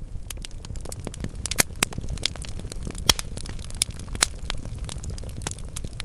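Wood fire crackling in a fireplace: irregular sharp pops and snaps from the burning logs over a low steady rumble of flames, with a few louder pops.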